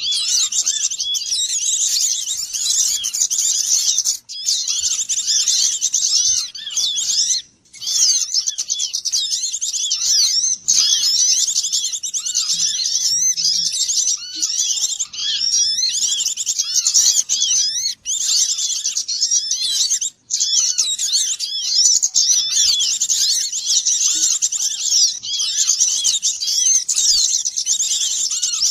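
Dense, continuous chorus of many small songbirds chirping and twittering over one another at high pitch: a bird-trapping lure recording of noisy small birds, used to draw wild birds in. It breaks off for an instant a few times.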